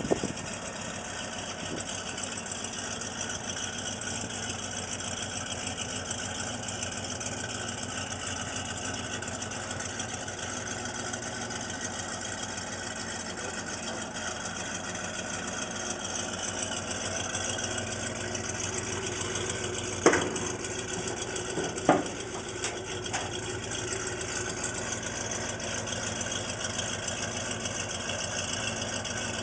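1969 Plymouth Road Runner's 383 Magnum V8 idling steadily. Two sharp clunks, about two seconds apart, stand out about two-thirds of the way through.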